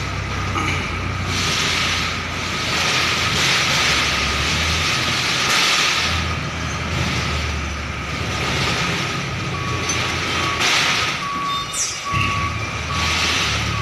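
Tractor-trailer truck's diesel engine running as it reverses, its noise rising and falling in several surges of hiss. A reversing beeper sounds in a steady series of short beeps in the last few seconds.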